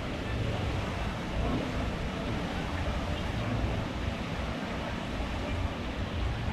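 Wind buffeting the microphone: a steady rushing noise over an uneven low rumble.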